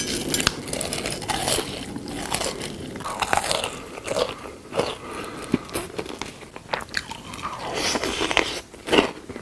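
Close-miked eating sounds: crunchy biting and chewing, an irregular run of crackles and crunches throughout.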